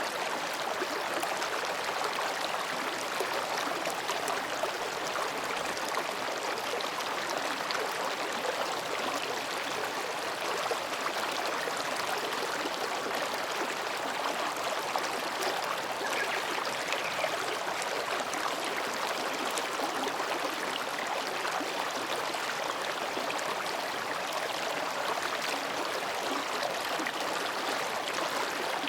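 Mountain stream flowing between rocks, a steady, even babbling of water.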